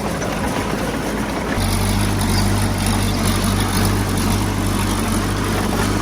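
Diesel engine of heavy earthmoving equipment running steadily. Its low, even note is ragged for the first second and a half, then settles back in.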